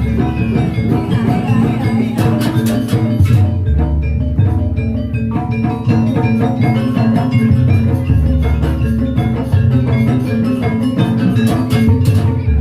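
Live jaranan music from a gamelan-style ensemble: ringing metallophones playing a repeating melody over drums, with deep sustained low tones underneath.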